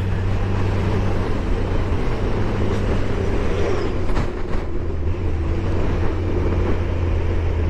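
Motorcycle engine running at a steady pace while riding, under a rush of wind noise on the microphone, with a few brief knocks near the middle.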